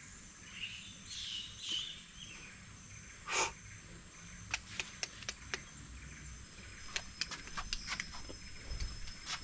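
Birds chirping and calling, with one louder call a few seconds in, followed by a run of short, sharp clicks over a faint background of insects.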